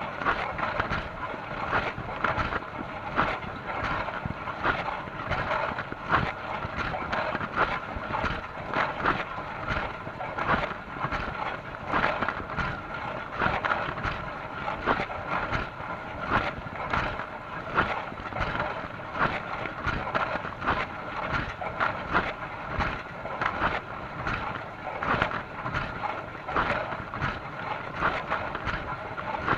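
Dishwasher running mid-wash: water spraying and splashing inside in an uneven patter over a steady hum from the pump.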